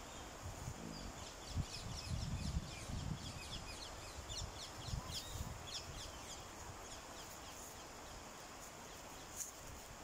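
A bird calling a rapid series of short, high, falling notes for several seconds, faint, with low rumbling on the microphone during the first few seconds.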